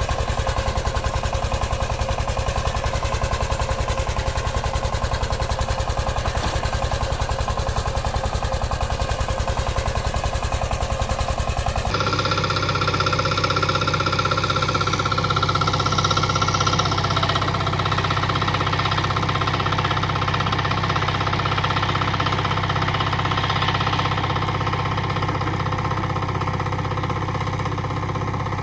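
Walk-behind tractor engines running: a rapid, even chugging for about the first twelve seconds, then an abrupt switch to a different, steadier engine sound with a steady whine over it.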